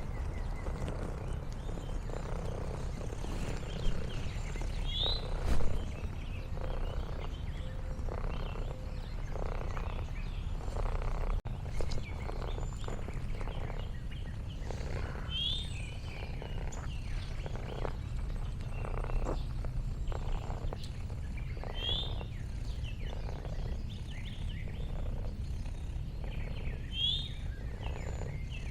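Orange tabby cat purring, a steady low rumble that swells about once a second with each breath. A bird gives four short rising chirps.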